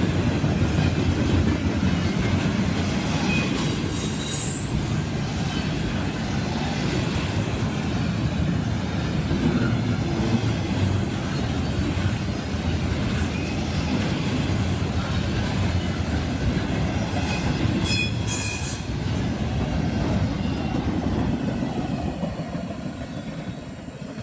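BNSF double-stack intermodal freight train rolling past, a steady rumble of steel wheels on rail, with two brief high-pitched wheel squeals about four seconds in and again around eighteen seconds. The rumble fades near the end as the last cars pull away.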